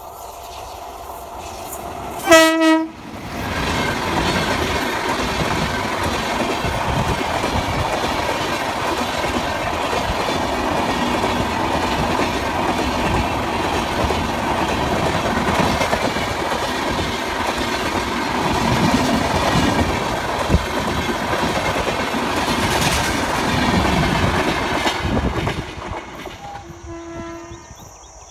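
An electric locomotive sounds its horn once, loudly, about two seconds in. Its express passenger train of AC chair cars then passes at speed, wheels clacking and coaches rushing by, and the noise fades away a few seconds before the end. A fainter horn sounds briefly near the end.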